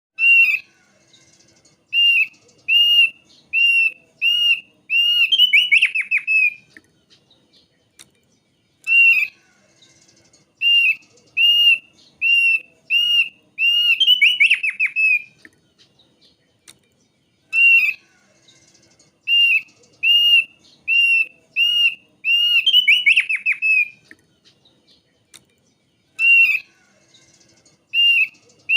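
Thick-billed heleia (thick-billed white-eye) singing. It gives series of clear whistled notes, each rising then falling, about one every two-thirds of a second. Each series ends in a quick descending trill, and the phrase comes three times.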